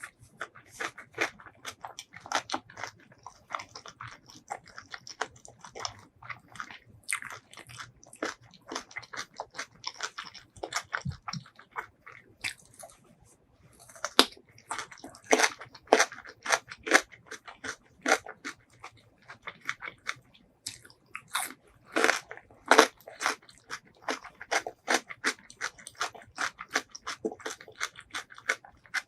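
Close-miked chewing and biting of food, a dense run of short wet clicks and crunches that thins out briefly about halfway through before picking up again.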